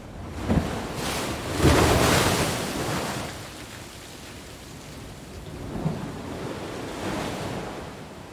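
Ocean waves breaking on a beach: a big wave crashes about half a second in, loudest near two seconds, and washes out by about three seconds, then a smaller wave breaks around six seconds and fades.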